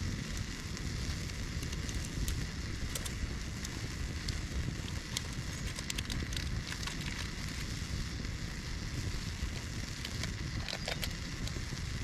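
Wood campfire crackling steadily with scattered sharp pops, over a steady low hiss as a pot of water heats on it.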